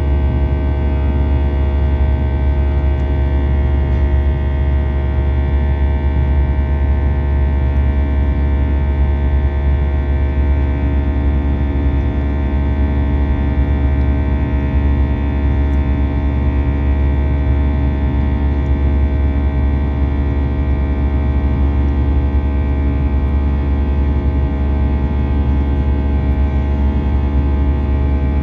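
Airbus A320 engines and airflow heard inside the passenger cabin in flight: a loud, steady drone with many held tones over it.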